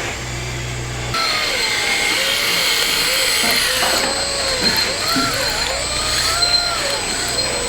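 Electric motors of radio-controlled model construction machines whining, several at once, their pitch sliding up and down as they speed up and slow down. The sound gets louder about a second in.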